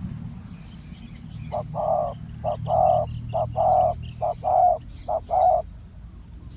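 Spotted dove cooing: a phrase of five paired coos, each a short note followed by a longer one, starting about a second and a half in. Faint chirps of small birds can be heard above a steady low rumble.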